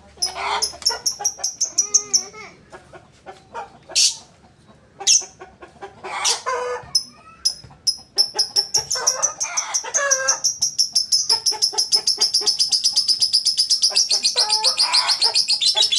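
A caged bird calling: scattered high chirps and some lower warbling calls at first, then from about halfway a fast, even run of high chirps, about five a second, that keeps going.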